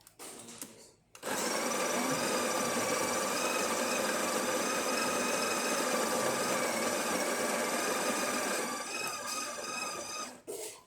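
The built-in burr grinder of a Breville espresso machine runs for about eight seconds. It starts about a second in, holds a steady whining pitch, and winds down near the end. It sounds like a grinder in good working order after a service.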